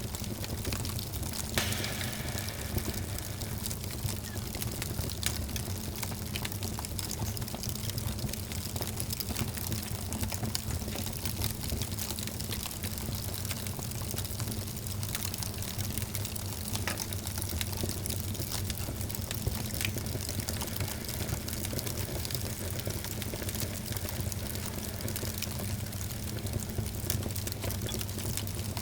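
Wood fire in a fireplace crackling and popping: a steady hiss and low rumble of burning, with frequent small snaps and one louder pop about a second and a half in.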